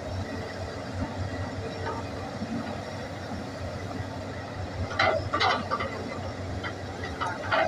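Hitachi hydraulic excavator's diesel engine running steadily, with a few short, sharp sounds about five seconds in and again near the end.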